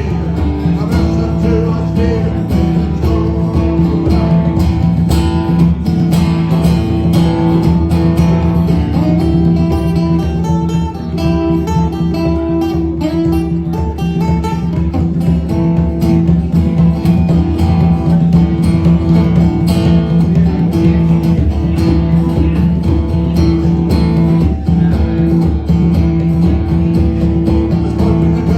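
Live band playing an instrumental passage led by strummed acoustic guitar over a steady low drone.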